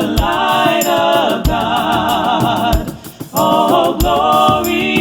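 Group of voices singing a gospel hymn over a backing track, with a steady low drum beat about every second and a quarter and light percussion ticking above it. The singing drops out briefly about three seconds in.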